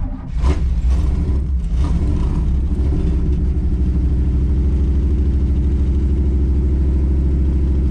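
Cammed Chevy small-block V8 in a 1983 C10, cold and with no choke, coming up sharply at the start and then running steadily with a pulsing, lopey beat. It is held on a little throttle because it will not yet idle on its own.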